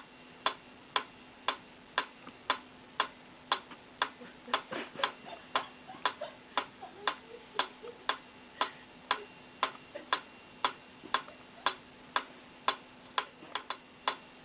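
Steady, even ticking, about two sharp clicks a second, with a few fainter irregular knocks in between.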